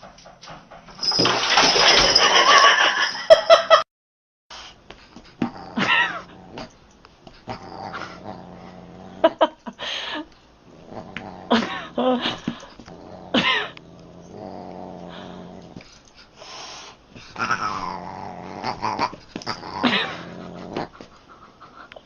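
Cats yowling and caterwauling in a string of short, separate clips, each call bending up and down in pitch. A loud rough burst of sound from about one to four seconds in is the loudest part.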